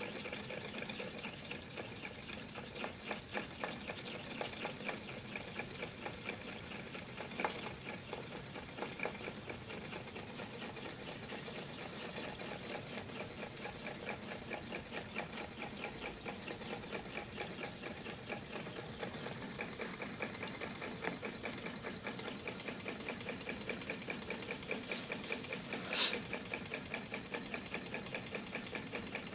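Homemade tin-can Stirling hot-air engine running steadily, a faint, fast, even clatter from its umbrella-wire linkages and spinning flywheel. A sharper click comes twice.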